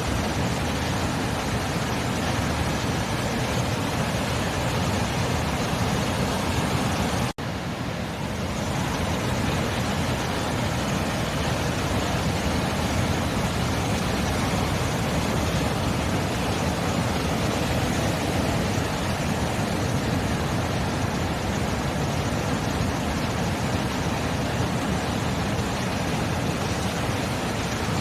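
Sea surf rushing in a steady, even wash of noise without distinct breaking waves. It cuts out for an instant about seven seconds in, then carries on.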